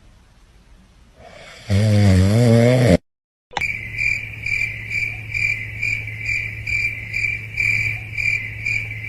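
A snore-like drawn-out sound with a wobbling pitch. After a brief cut, a steady high chirping begins that pulses about twice a second, like crickets.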